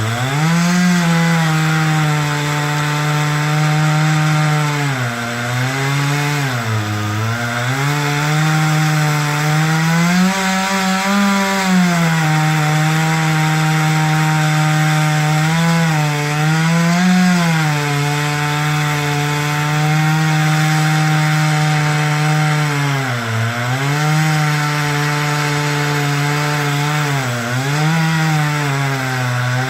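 Two-stroke chainsaw running steadily while cutting wood, its engine note sagging briefly several times as the chain is loaded in the cut and climbing once near the middle as it frees up.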